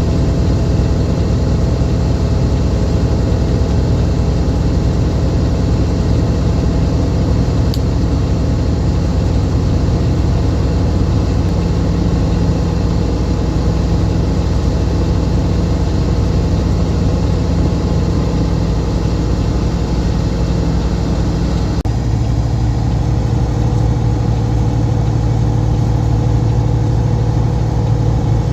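Semi truck's diesel engine running steadily under way, heard from inside the cab, with its note shifting about three quarters of the way through.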